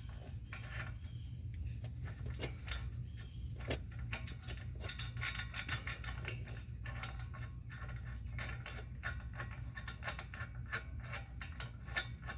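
Irregular small clicks and taps of hand work on exhaust hardware as a bolt is turned around and refitted, growing busier about halfway through, over a steady high-pitched tone and a low hum.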